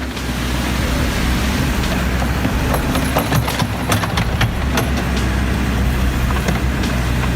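A heavy vehicle's engine running steadily under a constant noisy hiss, with several sharp knocks and clicks about three to five seconds in.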